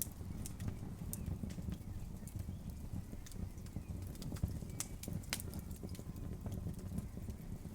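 Campfire crackling, with irregular sharp pops over a steady low rush.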